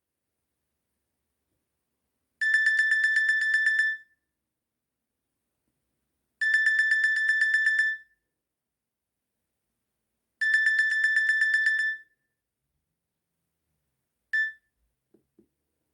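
Nokia E51 mobile phone's loudspeaker playing a ringtone: a high, rapidly pulsing ring about a second and a half long, repeated three times about four seconds apart. A fourth ring near the end is cut off almost at once.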